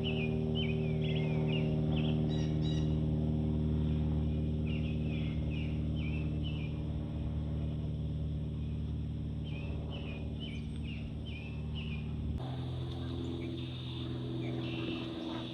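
A songbird singing short, quick chirping phrases in three bursts over a steady low droning hum. The hum changes abruptly about twelve seconds in.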